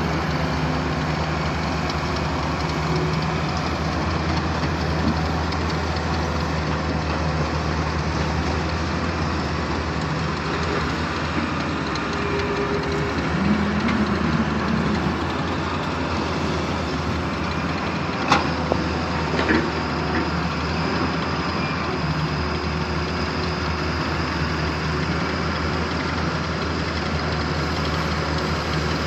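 Heavy diesel engine of construction machinery running steadily, with a single sharp knock about eighteen seconds in.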